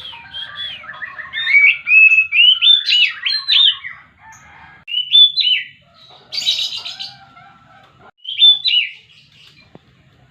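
Oriental magpie-robin singing: phrases of quick, varied whistled notes sliding up and down, broken by short pauses, with a harsher, scratchier burst about six seconds in.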